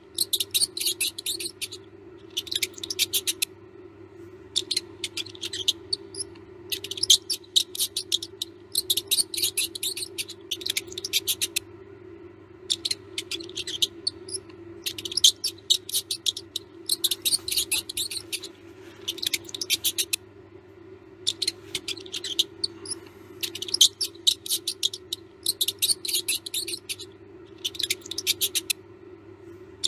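Mouse squeaking in rapid, high-pitched bursts, each about a second long, repeated every second or two over a steady low hum.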